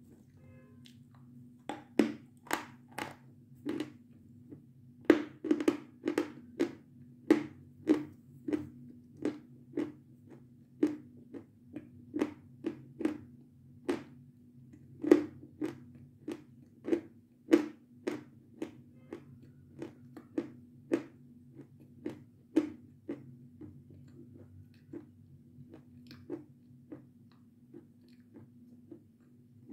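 Close-up crunching and chewing of crisp, rather hard meringue in the mouth: a run of sharp crunches about one or two a second that thin out near the end, over a steady low hum.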